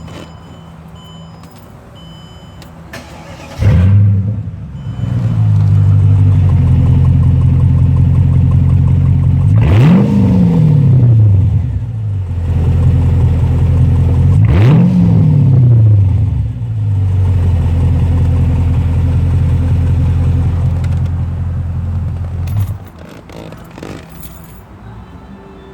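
Mercedes E500 V8 with its muffler and resonator deleted: after a few short chime beeps, the engine starts with a loud flare about three and a half seconds in and settles to a loud idle. It is revved twice, each rev rising and falling back to idle, then it is switched off near the end.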